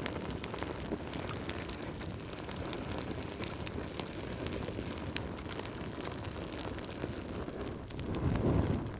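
Wood fire crackling in a fireplace: frequent small sharp pops and snaps over a steady soft hiss. Near the end comes a brief louder low rumble.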